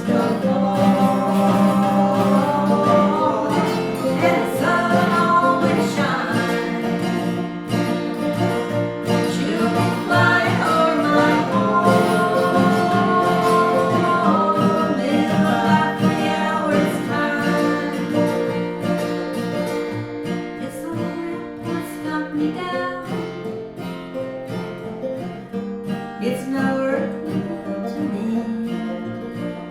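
Acoustic folk music: guitar with a sung melody line, easing down in loudness over the last third.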